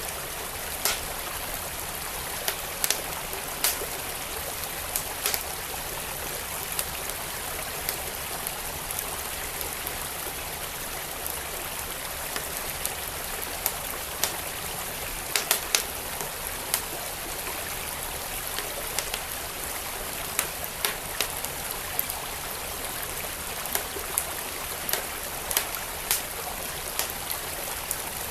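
A wood fire crackling, with sharp pops at irregular moments, over a steady rushing of flowing stream water.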